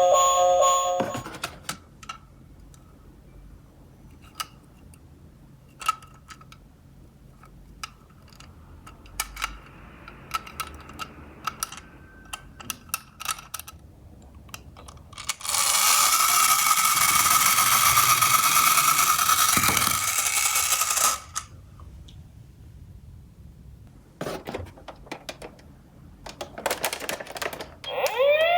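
Small die-cast toy cars clicking and clacking as they are handled and set on cardboard. About halfway through, a loud steady rushing noise lasts about five seconds, then sharp clicks return.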